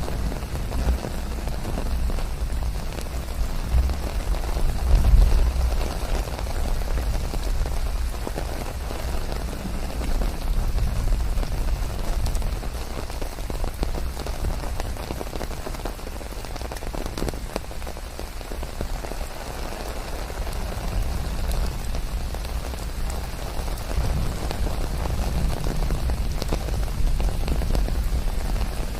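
Steady rain pattering on leaves, with a low rumble underneath that swells and eases a few times.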